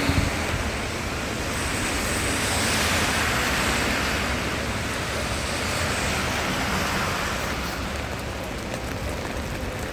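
A car passing on a rain-wet street: its tyre hiss swells over the first few seconds and fades away, over a steady hiss of rain.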